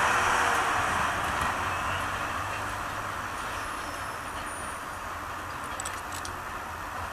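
Passenger train running away over the track, the rumble of its coaches and the Class 67 diesel locomotive at the rear fading over the first few seconds and then holding steady and lower.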